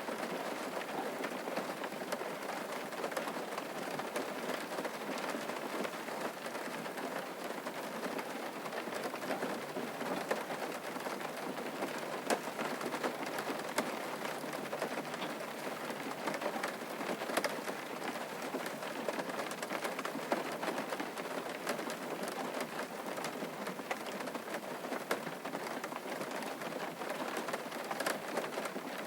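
Steady rain falling on a surface, a continuous patter with many individual drops ticking sharply through it.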